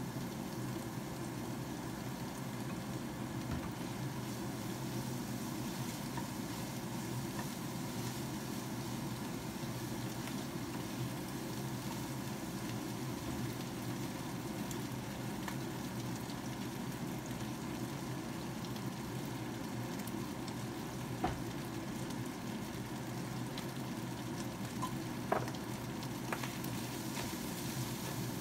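Diced vegetables sizzling steadily as they stir-fry in a nonstick frying pan, with a few sharp knocks of the spatula against the pan in the last third.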